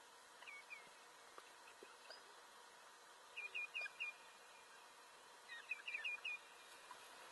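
Faint, high, falling chirps from a small bird: a pair, then two quick runs of four or five calls a couple of seconds apart, over a quiet outdoor background.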